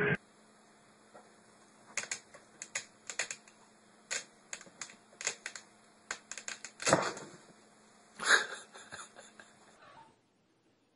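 Irregular light clicks and taps, like typing, with two louder knocks past the middle, over a faint steady hum.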